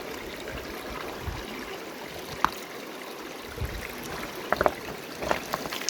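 River water running steadily, with a few sharp clicks partway through and a quick cluster of them near the end.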